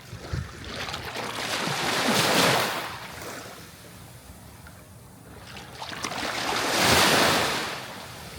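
Sea waves washing onto a shore, two waves about four and a half seconds apart, each swelling to a hissing wash and then draining away.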